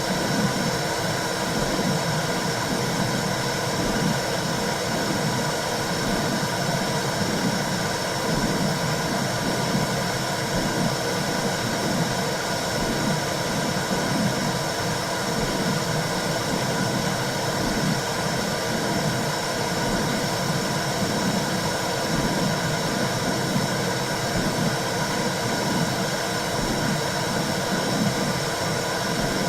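Womb sound for soothing a baby: a steady rushing noise like white noise, with a low whooshing pulse repeating throughout.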